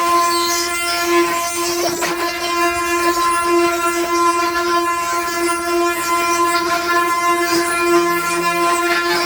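Wooden ox cart 'singing': the long steady whining drone of the wooden axle turning against its wooden bearings as the cart rolls, held on one pitch with rich overtones and a slight waver in strength.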